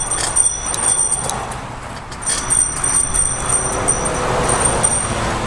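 Bicycle bell rung in quick repeated dings, in two runs with a pause of about a second between them.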